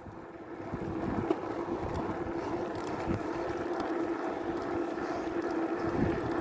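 Electric vehicle motor whining at one steady pitch while riding, over wind noise on the microphone and rolling noise, slowly growing louder.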